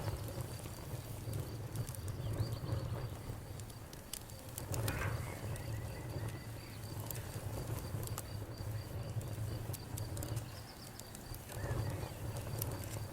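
Campfire burning, with irregular sharp crackles and snaps over a low rumble that swells about five seconds in and again near the end. A steady, high-pitched pulsing trill runs behind it.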